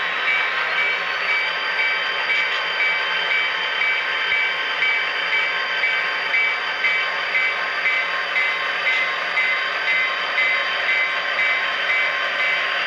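Sound-equipped HO scale model train running on the layout. A steady locomotive sound plays through its small speaker, with a high ringing tone pulsing about twice a second.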